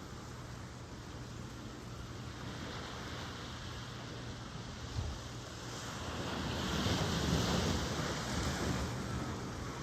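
Ocean surf: a steady wash of waves, with a wave building and breaking from about six seconds in and easing toward the end. A brief thump about five seconds in.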